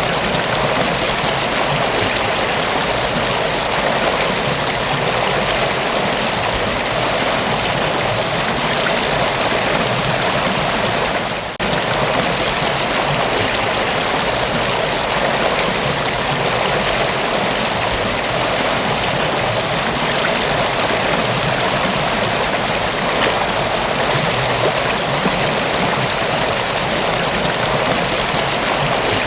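Mountain waterfall pouring steadily, a dense, even rush of falling water, with a brief dip in level about eleven seconds in.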